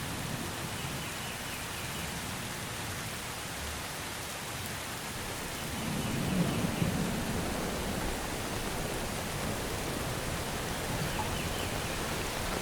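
Steady rain falling in a forest, with a low rumble of thunder swelling about six seconds in. Faint high bird calls come through the rain a few times.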